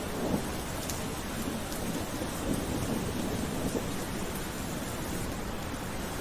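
Gentle rain falling steadily as an even hiss, with a low rumble that swells and fades through the first four seconds.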